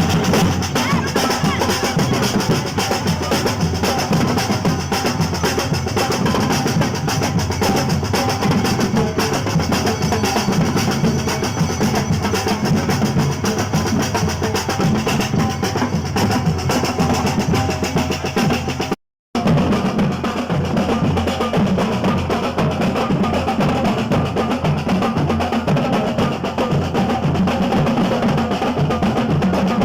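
Brass band playing, with snare drum rolls and bass drum prominent. The sound cuts out for a split second about two-thirds of the way through.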